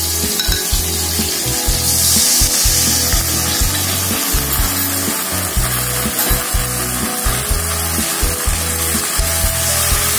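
Liquid sauce poured into a hot wok of sautéed chilies and tomatoes, sizzling as it hits the oil, then stirred with a metal spatula. The sizzle is loudest for a couple of seconds about two seconds in.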